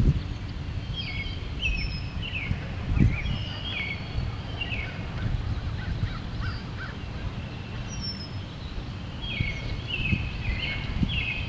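Wild birds calling: two runs of short calls, repeated about twice a second, one in the first few seconds and another near the end, with a few higher thin notes between. A low rumble runs underneath.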